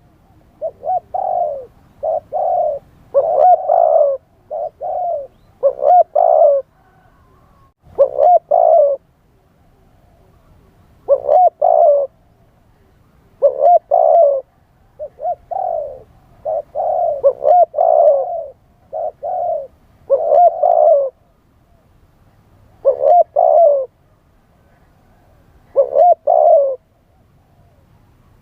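Spotted dove cooing: groups of two to four short, low coos repeated over and over, with gaps of one to two seconds between groups.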